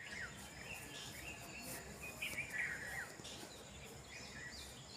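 Birds chirping and calling at dusk, many short calls, several of them sliding down in pitch, over a thin steady high tone typical of insects.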